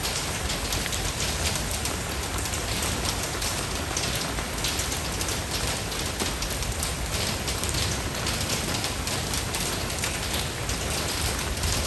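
Steady rain falling, an even hiss full of fine drop patter, over a low rumble.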